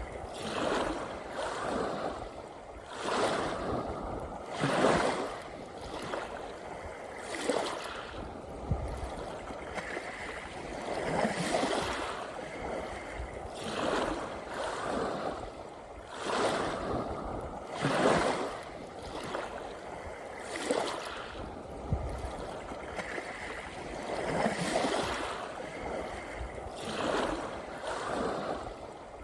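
Small sea waves washing onto the shore one after another, swelling every few seconds over a steady hiss of surf.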